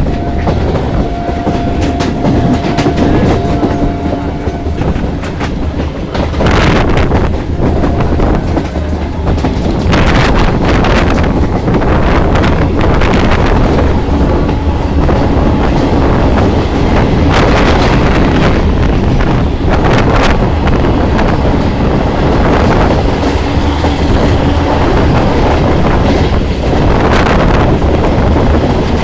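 Local passenger train running along the track: a steady rumble with the wheels clacking over rail joints.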